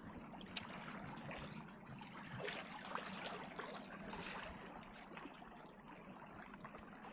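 Water trickling and lapping close by, with small scattered ticks and one sharp tap about half a second in.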